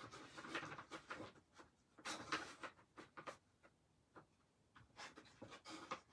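Small craft cutouts being shuffled and set down on a tabletop: light clicks and scrapes in three short clusters a couple of seconds apart.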